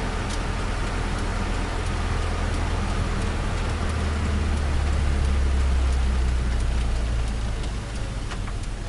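Turbocharged Nissan Micra engine running with a steady low drone that swells in the middle and eases off near the end.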